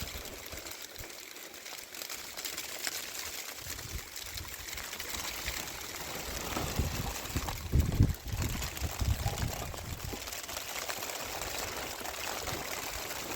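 Water pouring and trickling steadily, with a few low knocks about halfway through.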